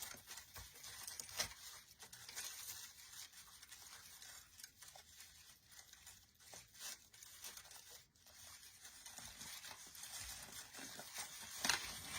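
Faint rustling and crinkling of pine teardrop-swag branches and decorative picks as they are handled and pushed into place, with scattered small clicks.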